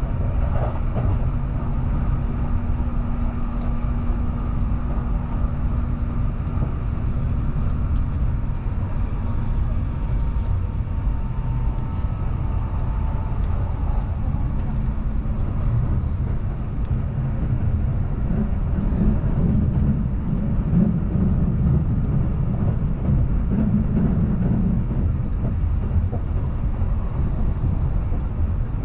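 Keihan Main Line limited express train running between stations, heard from inside the car: a steady rumble of wheels on the rails. A low steady hum runs through the first third, and the rumble grows louder for several seconds about two-thirds of the way through.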